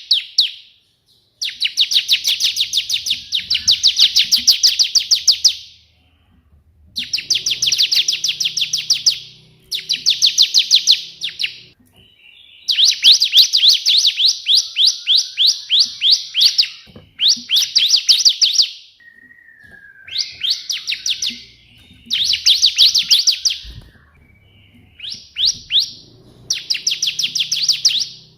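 A bar-winged prinia (ciblek) singing in full song. It delivers repeated phrases of rapid, sharp notes at about ten a second, each phrase lasting one to four seconds with brief pauses between. This is the shot-like trilling style, called the 'tembakan' version, that is typical of the white prinia.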